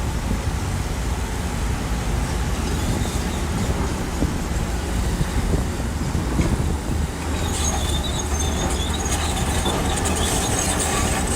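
Shantui bulldozer's diesel engine running steadily with a deep rumble, and a high metallic squeal joining about two thirds of the way in.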